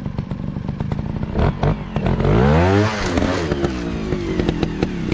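Dirt bike engine running, its note climbing to a peak about halfway through and then dropping back, over many sharp clattering knocks from the riding.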